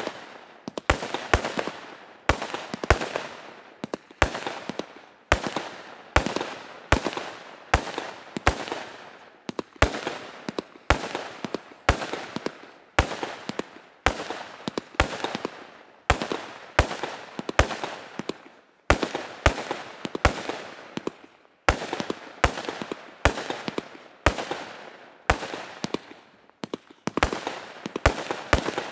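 Wolff Amadeus (6614) category F2 compound fireworks battery firing shot after shot: a steady run of sharp bangs, about one to two a second, each followed by a short fading crackle.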